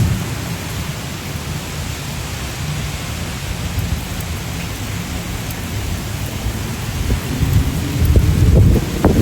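Typhoon wind and heavy rain, the gusts rumbling on the microphone and growing stronger near the end.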